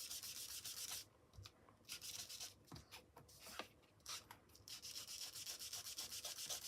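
Ink blending tool rubbed over cardstock in quick, fine strokes, a faint scratchy rubbing with a couple of short pauses, blending ink colours into the card.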